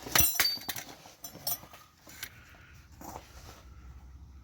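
Metal tools clinking and knocking against metal parts while working, a quick cluster of sharp clinks just after the start, then a few scattered knocks.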